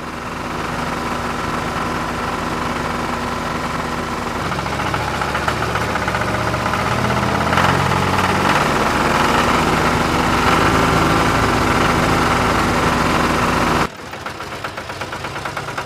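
An engine running steadily, with an even low drone and a higher whine above it, that cuts off abruptly about fourteen seconds in; a quieter, pulsing running sound follows.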